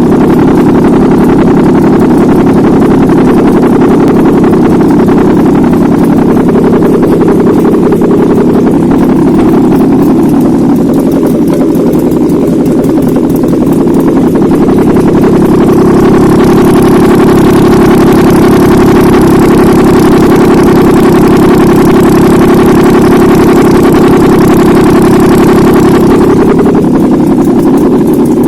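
Nissan VQ35DE 3.5-litre V6 engine running steadily on a test stand, at about idle. For about ten seconds past the middle its sound turns brighter and harsher, then settles again.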